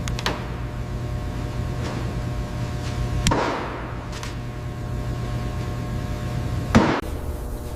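A few sharp knocks over a steady low hum: a light one right at the start, a loud one about three seconds in and another near the end, each trailing off briefly.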